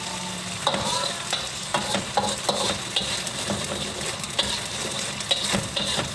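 Spice paste sizzling in oil in a wok, with a spatula scraping and knocking against the wok as it is stirred; the stirring strokes begin under a second in and repeat irregularly.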